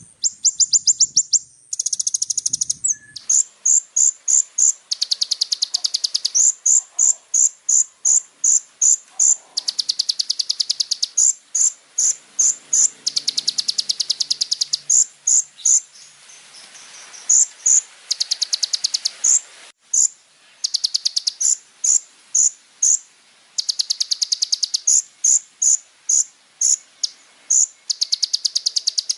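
Kolibri ninja (sunbird) song: high-pitched, fast buzzing trills alternating with runs of sharp, separate chirps, several a second.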